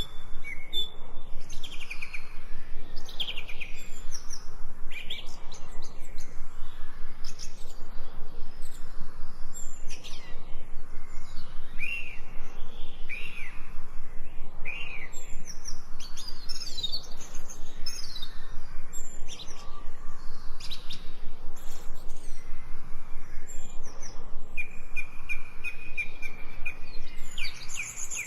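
Birds chirping and singing, many short high chirps and quick falling notes overlapping, with a fast even trill near the end.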